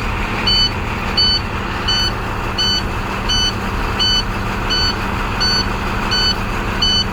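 2013 IC CE school bus engine idling after a cold start, with a high electronic warning beep repeating steadily, about three beeps every two seconds, over the engine's rumble.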